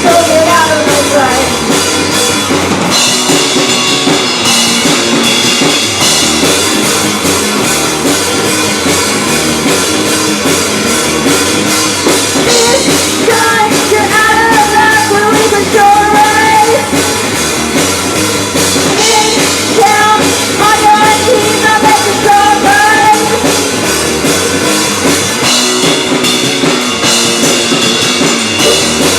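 Rock band playing live: a drum kit and guitars, with a sung or lead melody line coming in over them twice.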